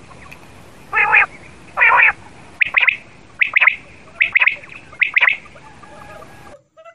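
Quail calling: two harsh, raspy notes, then four short, sharp two-part calls a little under a second apart, over a steady hiss. The sound cuts off abruptly near the end.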